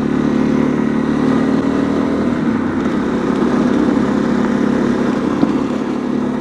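Honda CRF250L's single-cylinder four-stroke engine running at a steady cruising speed while riding, its note holding even and easing slightly near the end.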